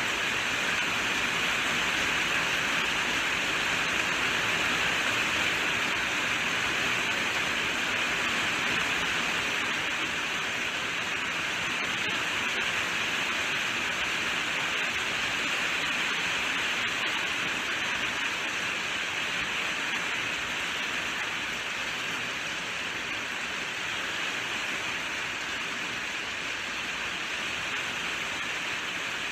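Steady heavy rainfall, an even hiss of rain with no distinct drops or thunder.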